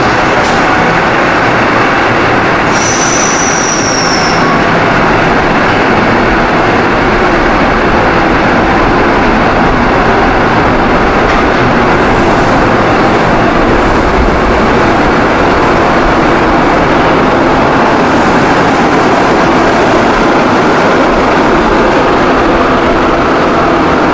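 Steady running noise of a stationary XPT diesel passenger train standing at the platform, with a brief high whistling hiss about three seconds in.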